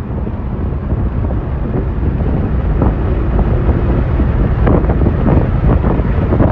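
Fireworks going off: a run of sharp crackling pops and bangs over a heavy low rumble of wind on the microphone, the pops coming thicker in the second half.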